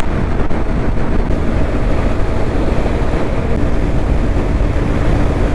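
Honda Hornet motorcycle cruising at highway speed, around 90 km/h: wind rushing over the microphone, with the engine humming steadily underneath.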